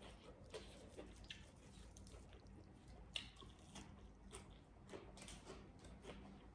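Faint chewing: soft, scattered wet mouth clicks of a person eating, with a slightly sharper click about three seconds in.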